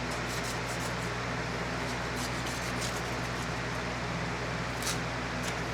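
Steady whir of an electric fan with a constant low hum, and a couple of faint light clicks near the end.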